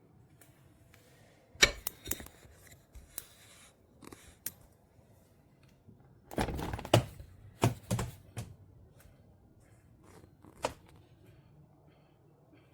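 Irregular clicks and knocks in a small room: a few single ones, then a quick cluster of them from about six to eight and a half seconds in.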